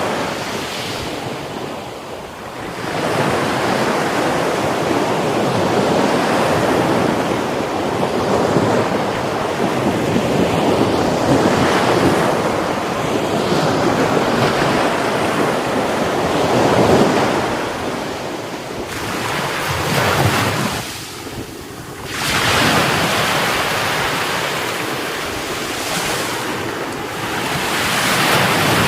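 Heavy Mediterranean surf breaking and washing up the beach, the roar swelling and easing in waves, with brief lulls about two seconds in and about twenty seconds in. Wind buffets the microphone.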